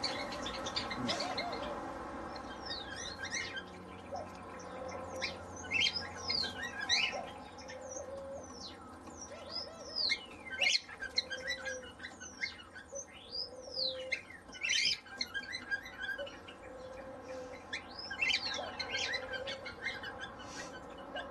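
Aviary birds chirping and calling: many quick sweeping chirps, with short low notes recurring every second or two.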